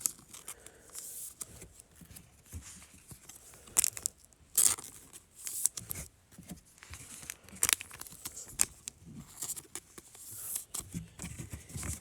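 Trading-card packaging being torn and crinkled open, with irregular sharp rustles and clicks from handling the wrapper and cards; the loudest crackles come about four and eight seconds in.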